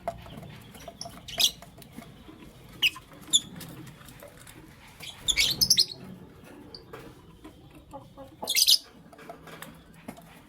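Lovebirds giving short, sharp, high-pitched chirps at irregular intervals, with a quick run of chirps in the middle and a louder burst near the end.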